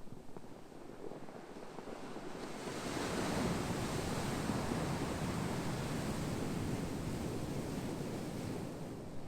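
Ocean waves: a wave surges in about two and a half seconds in, stays full for several seconds, then eases off near the end.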